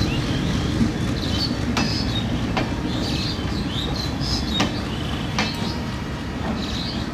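LHB passenger coaches of a diesel-hauled express rolling past on broad-gauge track: a steady wheel rumble, with sharp clacks every second or so as the wheels cross rail joints.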